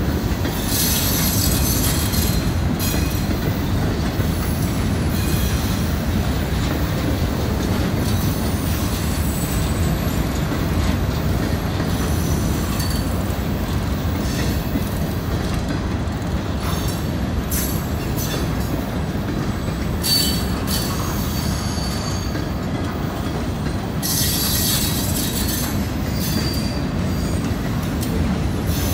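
Freight train's hopper and gondola cars rolling past: a steady heavy rumble of steel wheels on rail, with high-pitched wheel squeal coming and going, strongest about a second in and again near the end.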